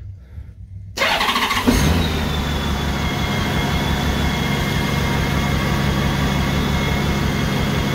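Honda GL1800 Gold Wing's flat-six engine started after an oil change: the starter cranks about a second in, the engine catches within a second and settles into a steady idle with a thin high whine over it.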